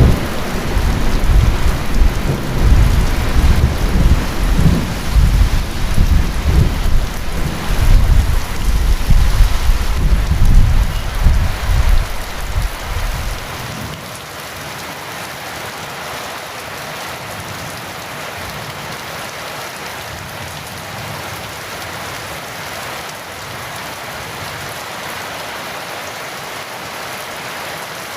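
Heavy rain falling steadily, with a long rolling rumble of thunder that dies away about halfway through, leaving only the rain.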